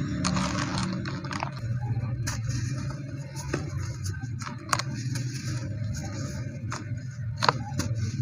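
Pieces of dry white cement being crumbled and crushed, giving irregular crunching and a dozen or so sharp cracks, the loudest a little before five seconds in and again near the end, over a steady low hum.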